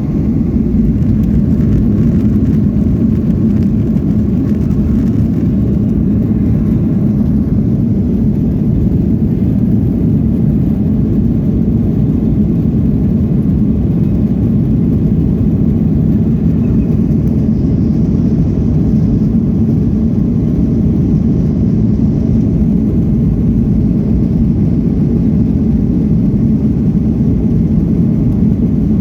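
Steady, loud engine noise of a Boeing 737-800's CFM56-7B turbofans at high thrust, heard inside the passenger cabin.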